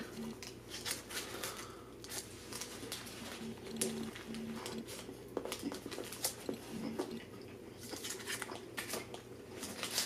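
Close-miked biting and chewing of a Burger King Whopper bun: soft wet mouth clicks and squishes, with a little rustle of the burger's paper wrapper being handled.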